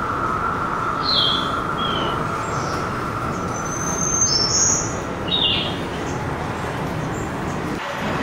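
Birds chirping: a handful of short, high, downward-sliding calls a few seconds apart, over a steady rumbling background with a faint steady hum, as from a nature soundscape played into the room.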